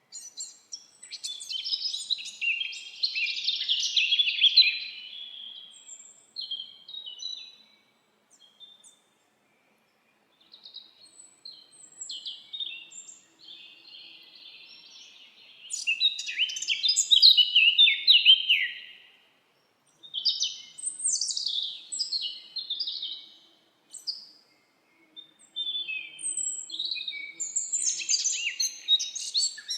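Several songbirds singing in a forest: bursts of quick chirps and warbling trills, with short pauses between bouts and the loudest singing around a few seconds in and again in the middle.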